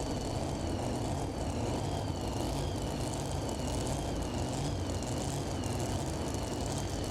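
Steady engine rumble, typical of a pulling truck idling while waiting to hook to the sled. A faint wavering high whine sits above it.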